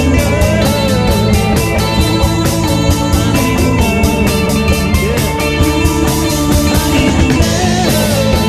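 Rock band recording playing: drum kit keeping a steady beat under guitars.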